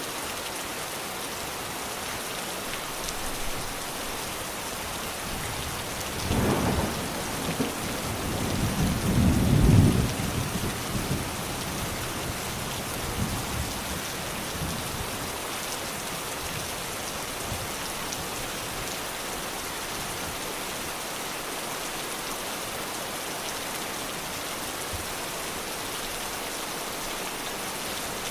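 Steady rain falling, with a rumble of thunder that rolls in about six seconds in, swells to its loudest near ten seconds and fades away.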